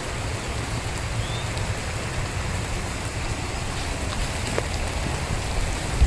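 Steady outdoor hiss with an uneven low rumble of wind on the microphone.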